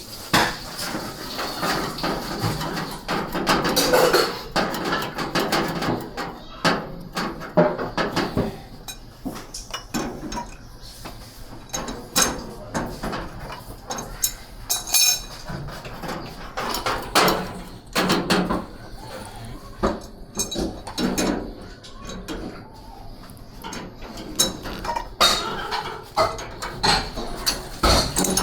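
Repeated metal clinks, clatter and knocks, like small metal parts being handled and tapped, with voices in the background at times.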